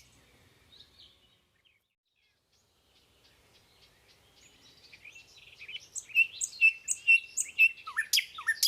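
Birds chirping: after a few seconds of near silence, short high chirps fade in and grow louder, with a quick run of repeated chirps about six seconds in and a few downward-sweeping calls near the end.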